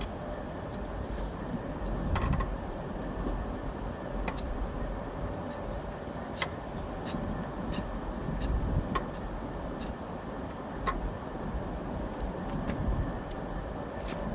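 Steady low rumble of idling engines with a faint steady hum, broken by scattered sharp metallic clicks and taps from a lug wrench working a wheel's lug nuts.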